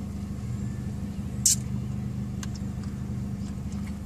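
Steady low hum of an idling car engine, with a short sharp click about a second and a half in.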